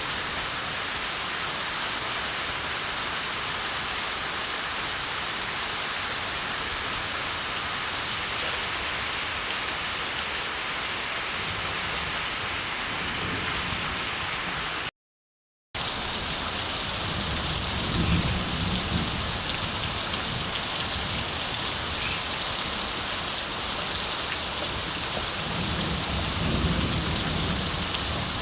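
Steady rain falling, with low rumbles of distant thunder in the second half. The sound cuts out completely for under a second about halfway through.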